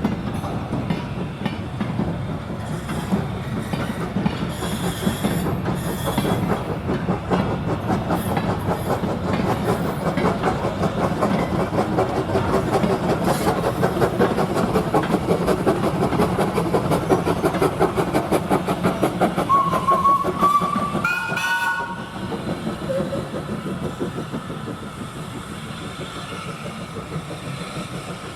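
Train running along the track with a steady rhythmic clatter that builds toward the middle. A short whistle sounds, stepping up in pitch, about twenty seconds in, and after it the clatter drops away to a quieter level.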